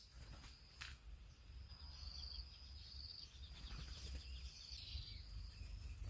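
Faint outdoor ambience: a thin, steady high insect trill, swelling a little a couple of times, with a few faint clicks.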